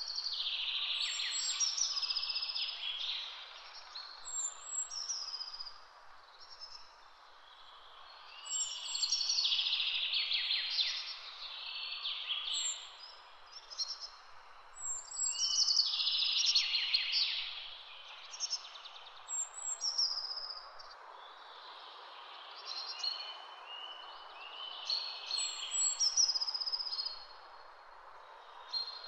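Birdsong: several chirping, trilling calls in spells of a second or two, coming every few seconds over a steady soft hiss.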